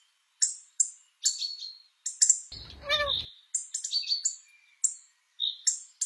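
Small birds chirping: a quick run of short, high chirps, several a second, with one lower, wavering call about three seconds in.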